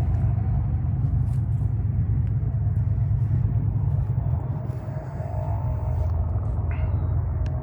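Steady low rumble with scattered light clicks and ticks.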